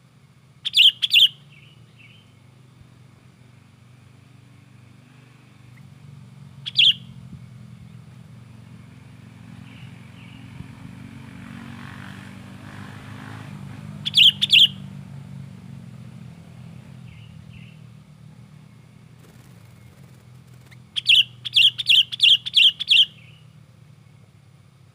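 Sooty-headed bulbul giving sharp, loud call notes in agitated bursts: a quick pair, a single note, another pair, then a fast run of about seven near the end. A steady low hum runs underneath and swells around the middle.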